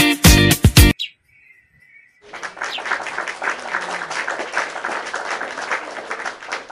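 Backing music with a beat cuts off about a second in. After a short pause, a dense chatter of many birds calling at once starts up and keeps going, like a large flock at a roost.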